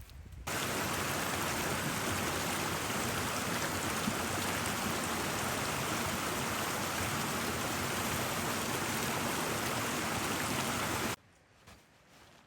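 Steady, loud rush of flowing water, a river or waterfall, which cuts in abruptly about half a second in and cuts off abruptly near the end.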